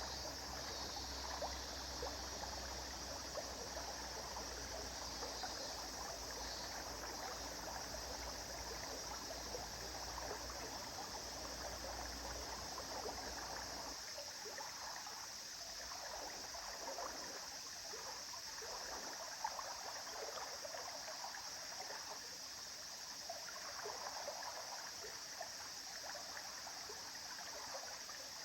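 River water flowing and babbling steadily over stones, with a low rumble underneath that drops away about halfway through.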